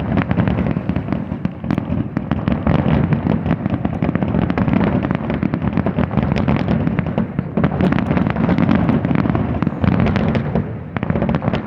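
Fireworks display: a continuous barrage of aerial shell bursts, many sharp bangs and crackles in rapid succession over a heavy low rumble.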